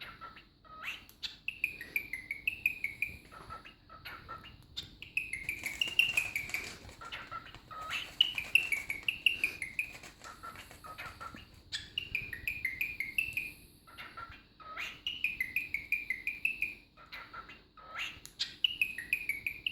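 Cockatiel chirping and warbling in runs of quick high notes, each run a second or two long and repeated throughout, with scattered sharp clicks between the runs.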